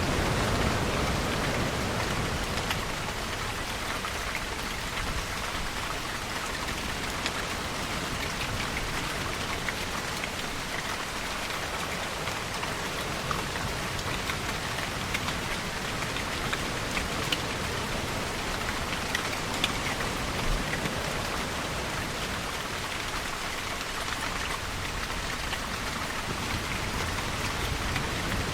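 Steady rain falling on a surface, with scattered louder drops ticking through it. A low rumble swells near the start and again at the end.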